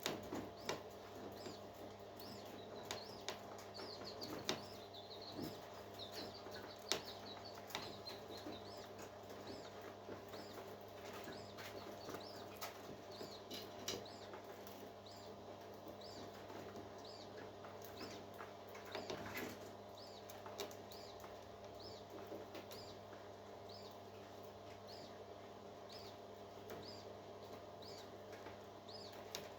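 A parrot chick giving faint, short, high peeps about once a second, over a steady low hum, with scattered clicks and scratches in the first half.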